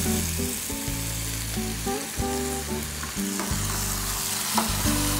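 Chopped ginger, garlic, chilli and onion with tomato sauce sizzling in hot oil in a frying pan, stirred with a steel ladle. Background music of held notes plays underneath.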